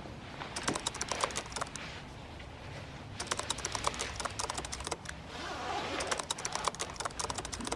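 Typing on a keyboard: three bursts of rapid key clicks, each lasting one to two seconds, with short pauses between them.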